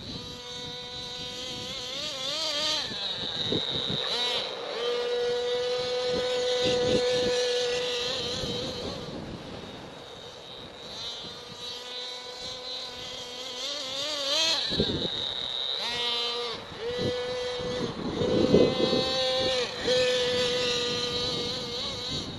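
Nitro RC monster truck's .28 glow engine running at high revs, a high-pitched whine that rises and falls with the throttle. It fades as the truck moves away about ten seconds in, then comes back louder, with a few sharp knocks in between.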